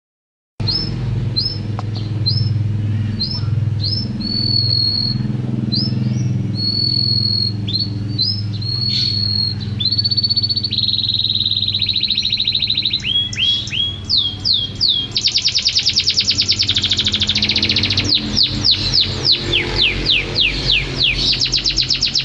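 Songbird singing a series of clear, high whistled notes with rising starts, which about halfway through turn into fast trills and rapid runs of falling notes.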